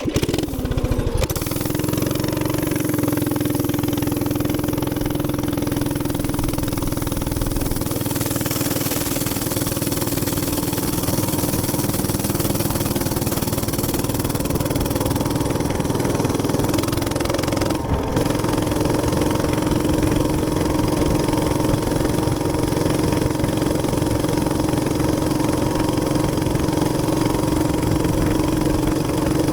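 Gas minibike's small engine running steadily at speed, a constant drone mixed with rushing wind noise. It comes up suddenly at the start as the bike pulls away and dips briefly about 18 seconds in.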